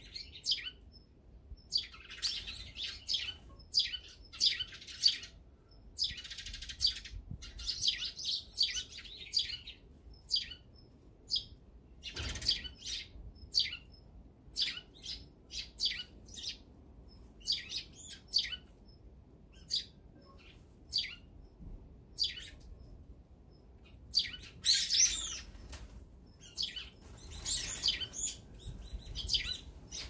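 Songbirds chirping and calling again and again in short, sharp notes, with a denser, louder flurry of calls about twenty-five seconds in.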